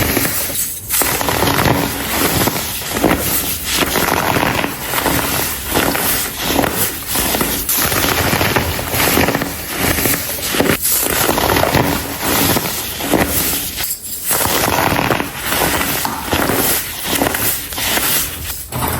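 Dried, compressed colored baking soda being crumbled and crushed, a continuous dense crunching and crackling with a few short pauses.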